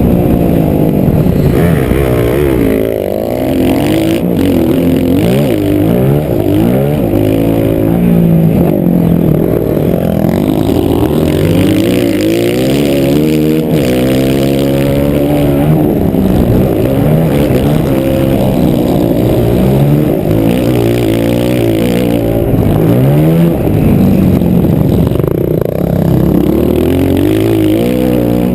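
Motocross bike engine heard up close, revving up and dropping back again and again as it shifts through the gears, its pitch rising and falling.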